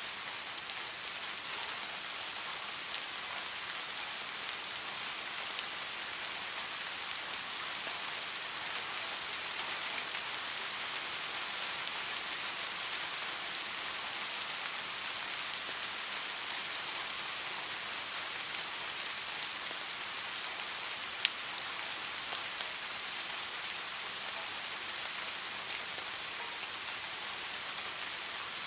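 Steady rainfall, an even hiss of many drops with scattered small drop ticks, and one sharper drip or tap about 21 seconds in.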